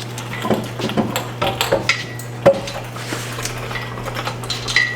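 Metal tools and parts clinking and knocking, with one sharp metal clank about halfway through and a few strikes that ring briefly. A steady low hum runs underneath.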